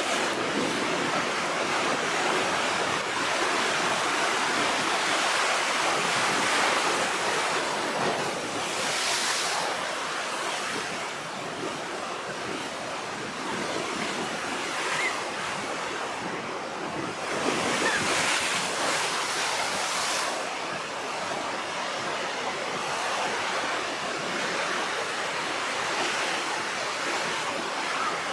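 Rough, storm-driven sea surf, a continuous rush of waves washing and breaking, swelling louder a few times as bigger waves come in. Wind buffets the microphone.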